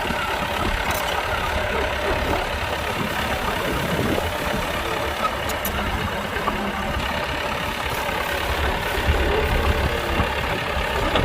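Heavy diesel engine of earth-moving machinery running steadily with a deep rumble, growing a little stronger near the end.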